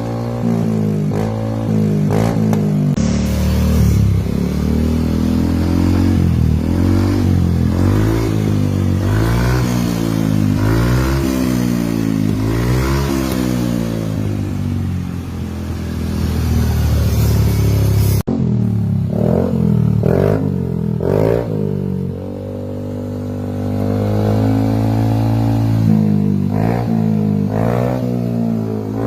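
Yamaha NMAX scooter's single-cylinder engine breathing through an aftermarket WRC racing exhaust, revved over and over in short blips that rise and fall in pitch, settling back toward idle between them. The sound cuts abruptly to a new take about three seconds in and again near eighteen seconds.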